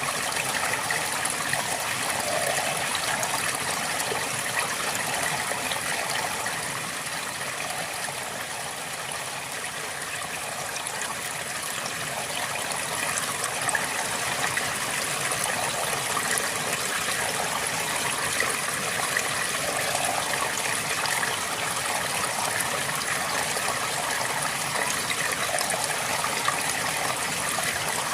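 River water flowing steadily over stones, a continuous rushing with a gurgling texture, easing a little in loudness partway through.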